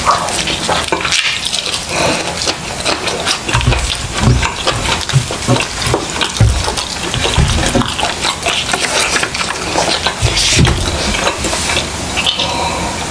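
Close-miked, wet chewing and lip-smacking as a person bites into and eats a grilled chicken leg, with many small clicks and squelches, and a drink gulped near the end.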